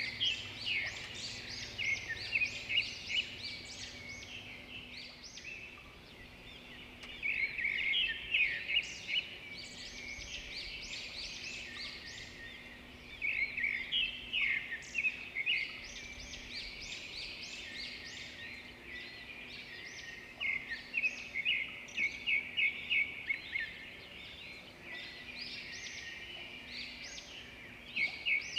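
Songbirds singing in bouts of fast, high, repeated chirps that come back every few seconds, with quieter calling in between.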